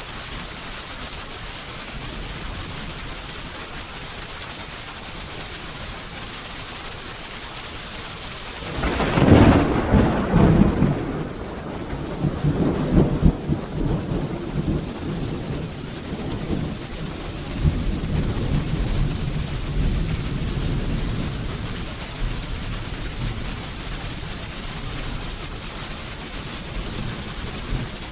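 Steady rain falling, then about nine seconds in a thunderclap breaks and rolls on as a long, uneven rumble that slowly fades over the next dozen seconds under the rain.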